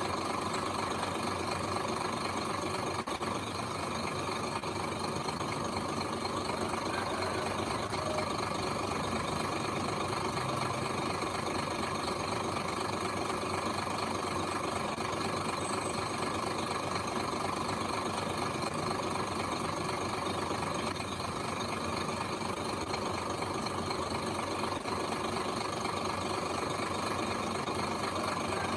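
Heavy construction machine's diesel engine running steadily, with an even drone.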